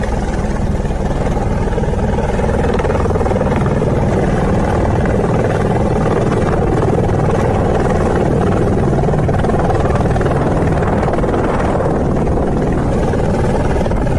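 Rescue helicopter running close by: a loud, steady din of rotor and engine.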